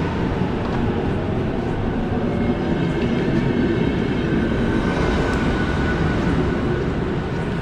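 A rail vehicle passing or running on the track: a steady, loud rumble with faint whining tones above it, one tone growing clearer in the second half, easing slightly near the end.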